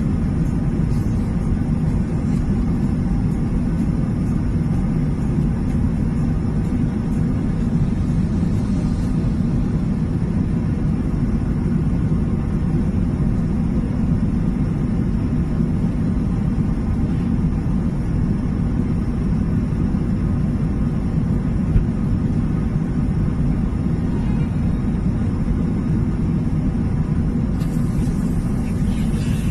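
Airliner cabin noise in flight: a steady low drone of engines and rushing air.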